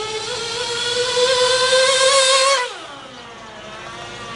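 Small GO 0.98cc nitro engine of a 1/16 scale RC buggy running at high revs with a high whine, its pitch creeping up. About two and a half seconds in the throttle comes off and the pitch and level fall away quickly to a lower, quieter whine.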